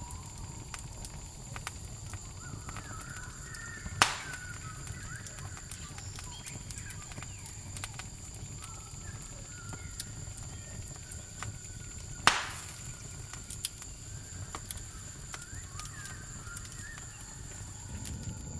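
Campfire crackling with scattered small snaps and two loud pops, about four seconds in and about twelve seconds in, over a steady high crickets' trill and faint chirping calls.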